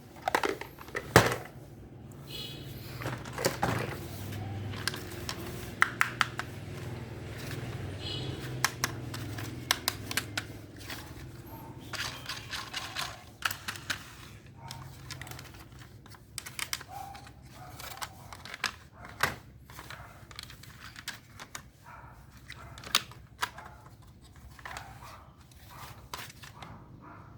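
Irregular clicks and clatter of small hard objects being handled and knocked together, with a low steady hum under the clicks for about the first half.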